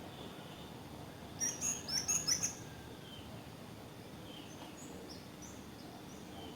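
Birds singing over a steady hiss of wind: a quick run of loud, high chirps about a second and a half in, then fainter scattered calls.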